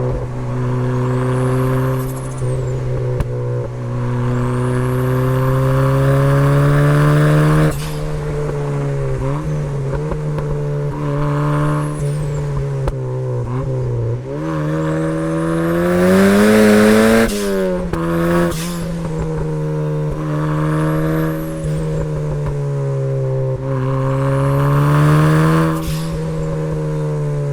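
Turbocharged Mazda MX-5 Miata four-cylinder engine, fitted with a Pulsar GTTX2860 turbo, revving hard through a series of pulls and lifts. The pitch climbs and drops several times, highest about two-thirds of the way in, with a high turbo whistle rising and falling over each pull.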